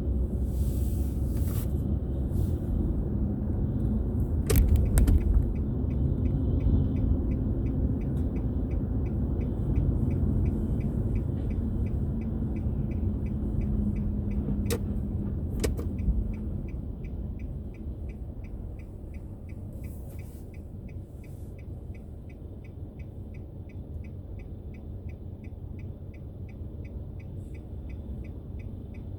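Car cabin road and engine rumble that drops off about halfway through as the car slows, with the steady regular ticking of the turn-signal indicator starting a few seconds in and a few sharp clicks.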